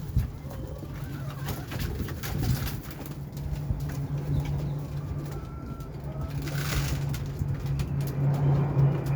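Domestic pigeons cooing, a low steady cooing with scattered small clicks.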